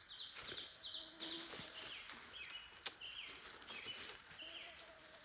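A small songbird singing a series of short high notes, quick and higher-pitched at first, then slower and a little lower. A single sharp click sounds near the middle.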